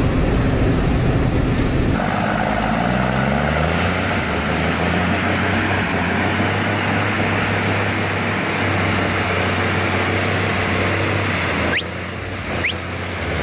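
Heavy truck diesel engines running under load, with a steady low engine drone and road and traffic noise over it. The sound changes abruptly about two seconds in, and again near the end, where two brief rising squeals are heard.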